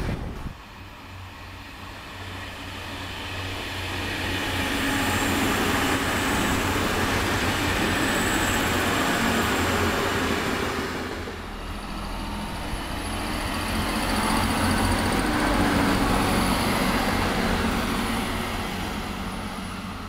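Train passing on the line: steady rumble of wheels on the rails with a low hum, building over the first few seconds. It dips about eleven seconds in, swells again with a faint high whine, and fades toward the end.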